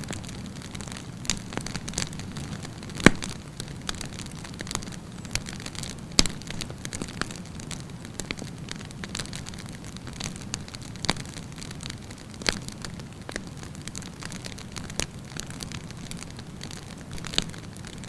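Wood campfire burning: a steady low hiss of flames with sharp crackles and pops at irregular intervals, the loudest pop about three seconds in.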